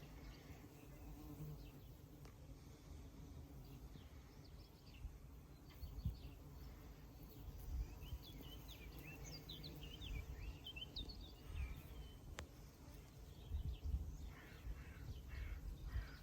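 Faint birdsong: short, high chirps and twittering, clearest in the middle and again near the end, over a low rumble. A single sharp click comes about twelve seconds in.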